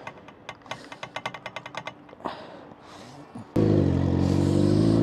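A run of quick clicks, then about three and a half seconds in a Suzuki GSX-R750's inline-four engine comes in suddenly and loud, running with small rises in revs.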